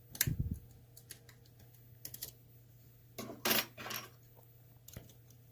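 Lock pick and tension wrench working in an ASSA Twin pin-tumbler cylinder: scattered small metallic clicks as the pick moves on the pins, with a louder scraping rattle a little past the middle.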